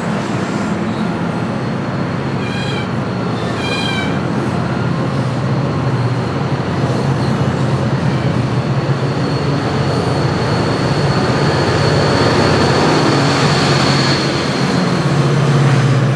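MARC commuter train moving at the station: a steady rumble of wheels on rail, with the drone of its diesel locomotives growing louder near the end. Two short high squeals come about three and four seconds in, and a thin high whine runs through the middle.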